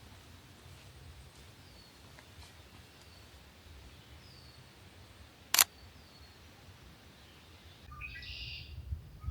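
Songbirds calling: a faint short down-slurred high note repeated every second or so, then a louder, more varied bird song near the end. About halfway through, a single sharp camera shutter click, the loudest sound.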